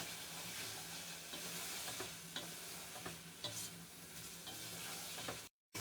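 Chopped tomatoes, chicken and onions frying in oil in a pot, a steady faint sizzle with light taps and scrapes of a spoon stirring them as the tomatoes cook down to soft. The sound drops out for a moment near the end.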